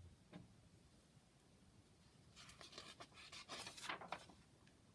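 Near silence, broken about halfway through by a faint paper rustle lasting about two seconds: a picture-book page being turned.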